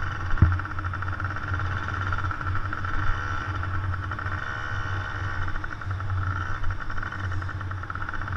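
Motocross dirt bike engines buzzing steadily at high revs as the bikes race around the track.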